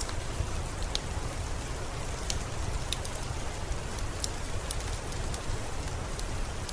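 Steady rainfall with a low rumble underneath and scattered sharp drip-like ticks.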